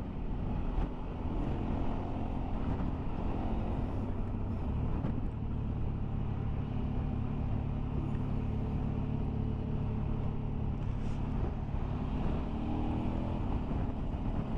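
Motorcycle engine running at road speed under a steady rush of wind, as heard from the moving bike. The engine note shifts about five seconds in and again near the end.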